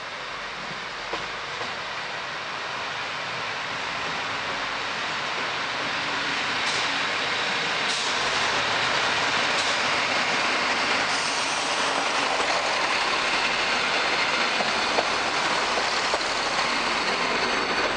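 Diesel passenger train arriving and passing close on the platform track. The engine and wheel noise grows louder as it nears, then holds steady as the coaches roll by.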